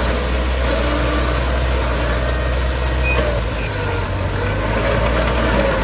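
Heavy earthmoving machinery's diesel engine running steadily under work, its low note shifting a little past halfway through.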